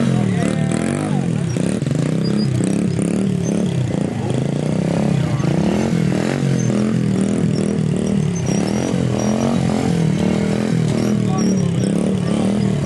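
Small pit bike engines revving up and down over and over, the pitch rising and falling about once or twice a second as the bikes are ridden through stunts.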